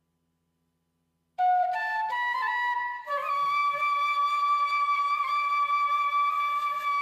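Background music: a flute melody comes in out of silence about a second and a half in, steps up through a few short notes, then holds one long note.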